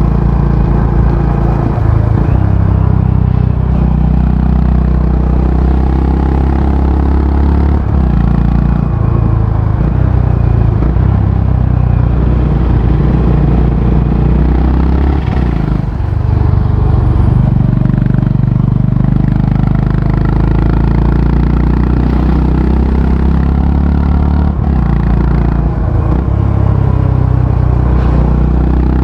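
Honda H'ness CB350's single-cylinder engine and exhaust under way on the road, the engine note rising and falling as the bike is ridden through its gears.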